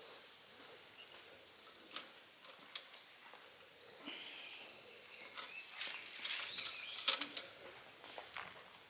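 A wild bird singing a quick run of repeated high notes about four seconds in, with scattered sharp clicks and taps throughout, the loudest a little after the song.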